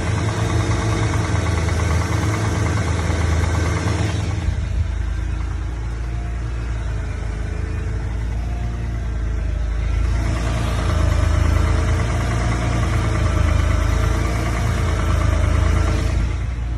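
BMW N54 3.0-litre twin-turbo inline-six running with a repetitive knock, which the owner takes for rod knock. It is louder for the first four seconds, eases off, then grows louder again from about ten seconds in until just before the end.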